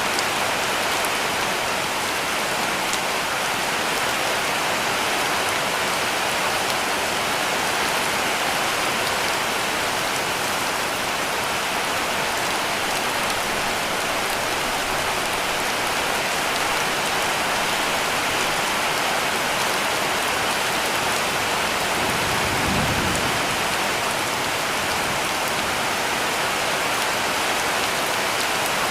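Heavy rain falling steadily on a cabin roof, an even dense hiss of drops. A short low rumble swells briefly about two-thirds of the way through.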